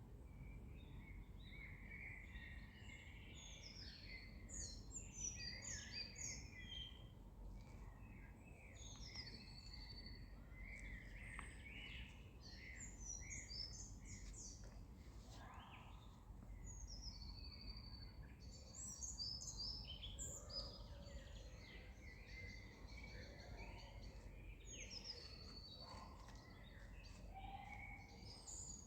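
Several wild birds singing at once: a dense, continuous chorus of short chirps and trills, over a faint low background rumble.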